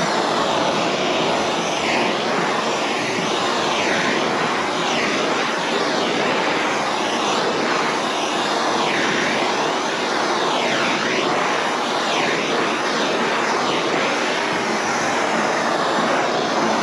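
A wrap installer's heat torch blowing steadily, with a whooshing that sweeps up and down in pitch every second or two. It is heating stretched, wrinkled wrap vinyl so that the film shrinks back to its original state.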